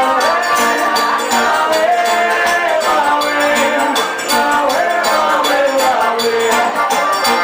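Live forró music from a band of accordion, guitar, zabumba drum and hand percussion, with a melodic line over a steady percussive beat.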